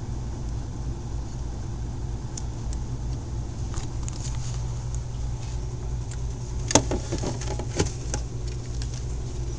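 Steady low hum, with a few sharp clicks, the loudest about seven seconds in and another about a second later.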